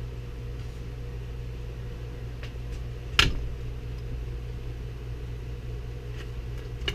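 Steady low machine hum, like a fan, with one sharp knock about three seconds in and a few faint clicks.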